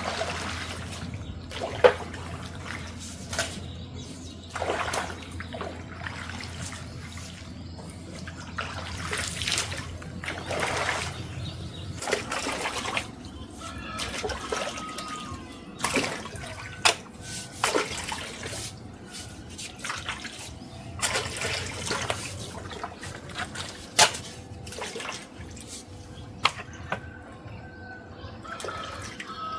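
Water splashing and trickling in irregular bursts, with sharp knocks now and then.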